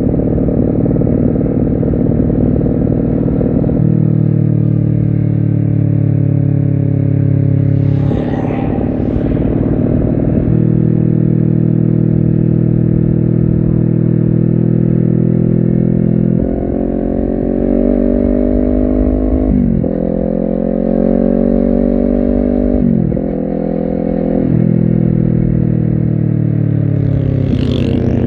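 Honda CBR250RR engine pulling under load while riding, heard from the bike. From about 16 s it revs up in several rising sweeps broken by quick gear changes, and near the end the revs fall away as the bike slows.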